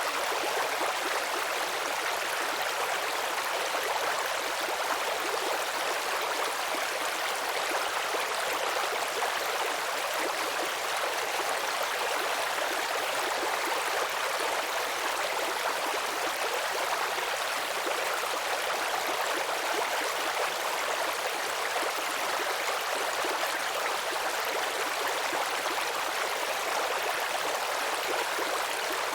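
Small stream babbling and trickling over stones, a steady even rush of running water.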